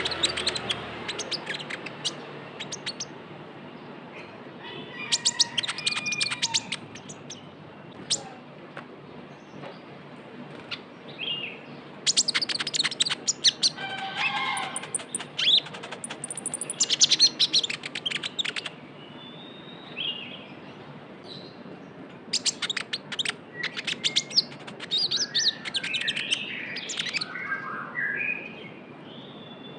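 A konin songbird singing in bursts of rapid, high chattering trills mixed with short warbled whistled notes, with brief pauses between phrases. This is a lively, full 'gacor' song of the kind used as a lure recording to get other birds singing.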